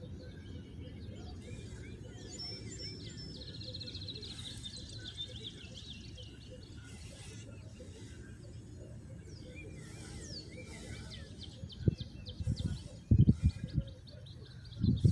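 Songbirds chirping and trilling over a steady low rumble. Near the end come several loud, low thumps.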